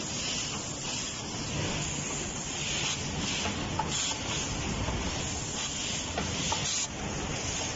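Automatic USB cable soldering machine running: a steady mechanical noise with repeated short hisses, some less than a second apart, and a few light clicks.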